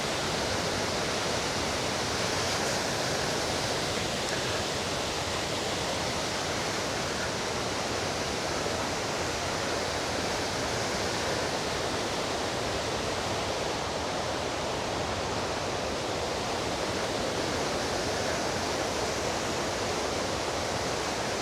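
Steady, even rushing noise that holds at one level throughout, with no breaks or distinct events.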